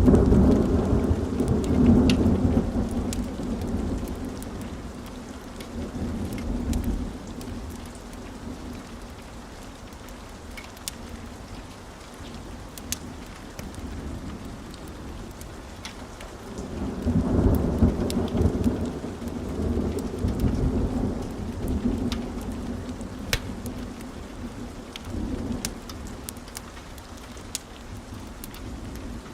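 Wood fire burning in a fireplace: scattered sharp crackles and pops over a low rumble of flames that swells loudly at the start and again about two-thirds of the way through.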